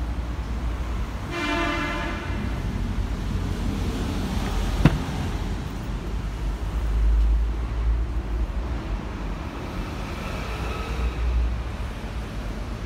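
Heavy diesel dump truck engine rumbling at low revs, swelling briefly about seven seconds in. A short horn toot sounds about a second and a half in, and a single sharp click near the middle.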